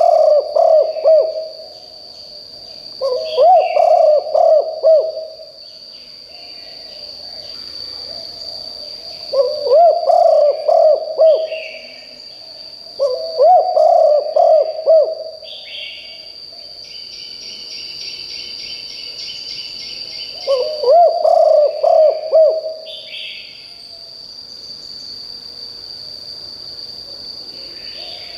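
Spotted dove cooing: five loud phrases of several pulsed coos each, a few seconds apart. This is a decoy dove's call, used to lure wild doves. A steady high buzz and scattered small-bird chirps run underneath.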